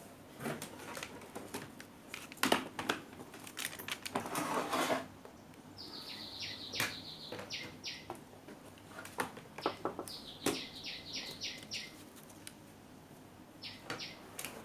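A bird calling in three short runs of rapid high chirps, each run opening with a falling note, over scattered clicks and clatter of small tools and parts being handled.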